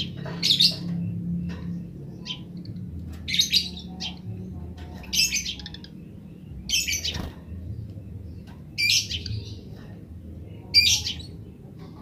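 Eurasian tree sparrow calling in short bursts of high chirps, six bursts spaced roughly two seconds apart.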